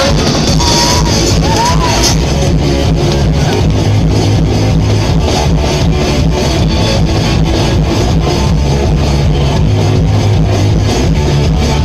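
Live rock band playing loud electric guitars over a steady, fast drum beat.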